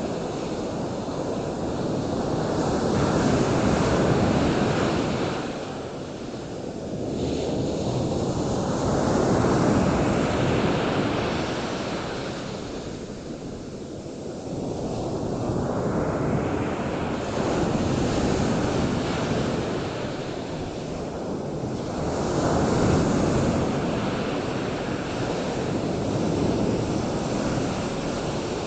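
Surf: a steady rushing wash of waves that swells and eases in slow surges every six to eight seconds.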